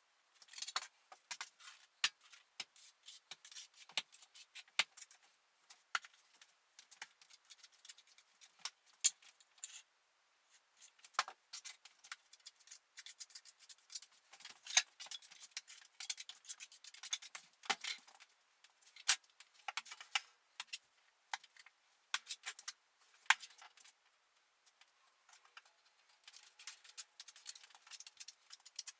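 Hand work setting metal plaster beacons in mortar on a wall: irregular sharp clicks, taps and short scrapes of tools and metal profiles, several a second with brief pauses.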